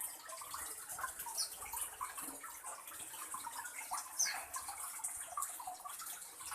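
Small birds chirping: short, high, sharply falling chirps every second or two, with softer scattered chirps between, over a steady hiss.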